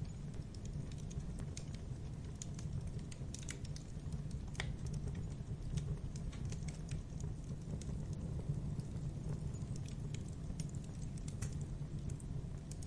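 Wood fire of burning logs in a fireplace, crackling with irregular sharp snaps over a steady low rumble of the flames; one louder pop about four and a half seconds in.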